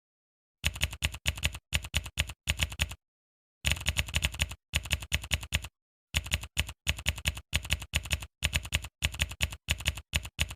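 Rapid typing or typewriter-style clicking, several sharp clicks a second in short runs, with completely silent gaps between the runs.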